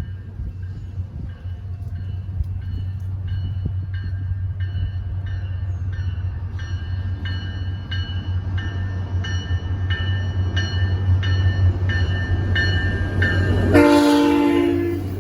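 Grade-crossing bell ringing about twice a second over the low rumble of an approaching train, which grows slowly louder. Near the end the train sounds a short, loud horn blast.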